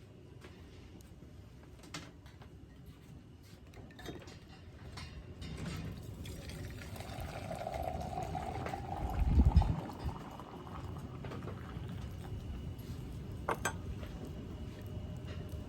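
Water heating in a kettle on a wood stove, a hiss that grows louder as it nears the boil, with a few sharp clicks and a loud low thump about nine and a half seconds in.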